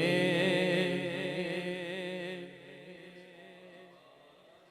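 A naat reciter's voice holding the last note of a sung line over a low steady hum, fading away over a couple of seconds into a quiet pause.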